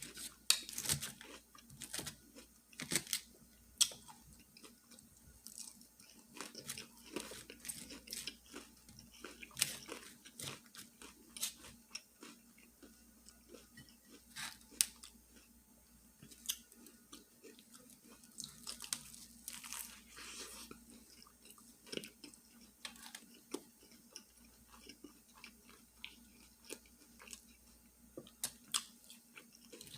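Close-miked chewing and crunching of a fried fish fillet sandwich with lettuce and onion: a string of crisp crackles and wet mouth clicks, with a few louder bites.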